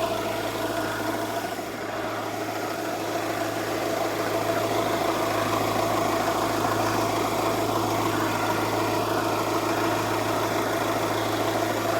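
Car engine idling steadily and running fine.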